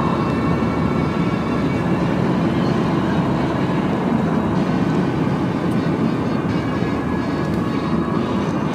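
Steady drive noise inside the cab of a Ram 3500 dually four-wheel-drive pickup: the diesel engine running and the tyres rolling on a snowy road.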